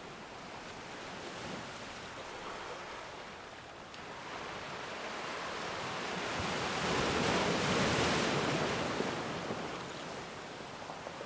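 Ocean waves breaking and washing on a shore: one wave swells up about halfway through, peaks, then recedes into a steady wash.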